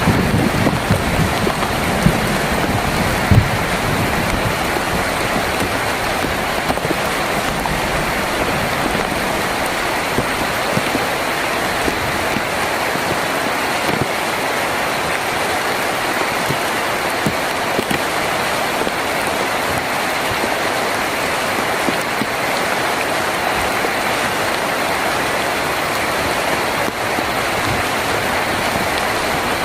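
Heavy rain drumming steadily on a tin roof, a dense even hiss. A low rumble of thunder dies away in the first few seconds.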